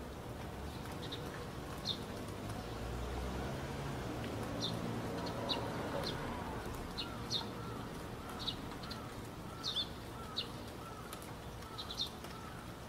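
Birds chirping: short, high chirps come irregularly, every second or so, over a low background rumble. A quieter repeated warbling note joins about seven seconds in.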